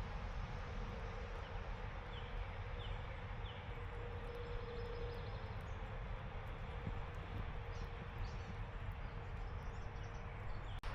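Outdoor background noise: a steady even rush with a faint steady hum through it, and three short chirps, likely from a bird, about two to three and a half seconds in.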